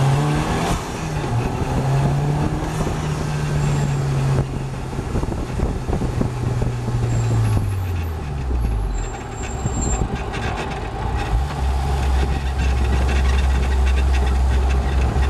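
KTM X-Bow's mid-mounted Audi 2.0 TFSI turbocharged four-cylinder, heard from the open cockpit, pulling steadily at speed after a gear change near the start. About eight seconds in the revs drop as the car slows, and the engine settles to a low, steady note at low revs.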